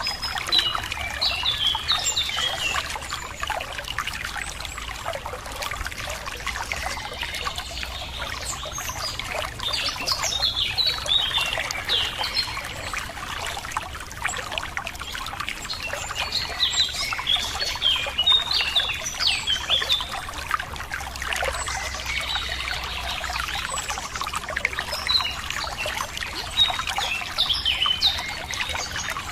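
Running water trickling steadily, with many small birds chirping and singing over it in short repeated phrases.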